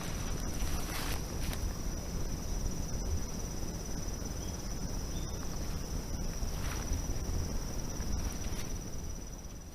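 A steady, high-pitched insect trill over a low rumble, with a few soft footsteps; it all fades out near the end.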